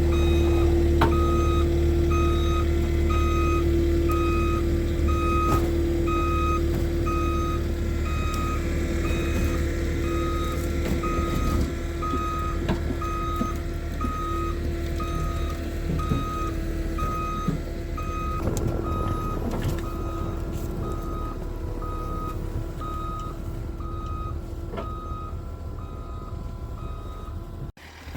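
Skid steer backing up with its reverse alarm beeping steadily, about one and a half beeps a second, over the running engine. The beeping stops near the end.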